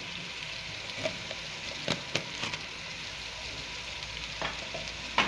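Onions, leek, chicken and potatoes sizzling steadily in oil in a stainless steel pot, with a few light clicks about two seconds in and again near the end.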